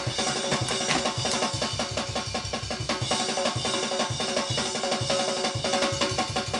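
Acoustic drum kit recording played back at a steady groove, with kick and snare hits repeating in an even rhythm over cymbal wash. It is a flat, unprocessed capture of the drum room, not yet EQ'd or compressed.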